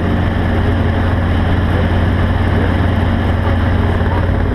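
A vehicle engine running steadily with a constant low hum and a noisy haze over it.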